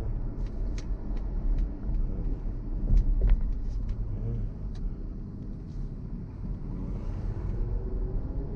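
Car driving through town: a steady low rumble of engine and tyres, with several short sharp clicks or rattles scattered over it.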